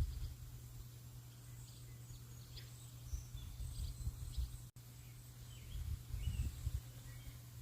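Faint bird chirps and short calls over steady outdoor background noise, with low rumbling surges coming and going and a steady low hum underneath. The sound drops out for an instant just past the middle.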